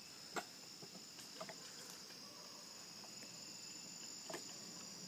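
Faint evening chorus of crickets and other insects, a steady high-pitched trilling, with a few short faint clicks, one about half a second in and another near the four-second mark.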